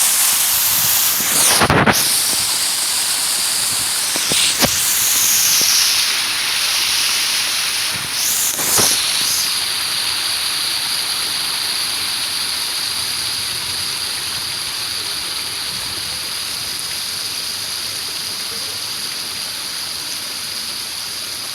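Water falling and splashing in a park fountain or waterfall feature, a steady loud hiss of spray. A few short louder bumps come in the first nine seconds.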